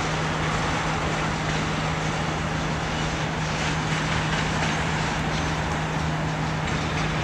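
A freight train of tank cars rolling past: a steady rush of steel wheels on rail, with a steady low hum underneath and a few faint clicks from the wheels near the middle.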